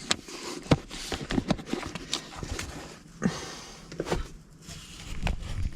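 Small objects being handled at close range: scattered light knocks and clicks with rustling, as cards are sorted in an overfull box.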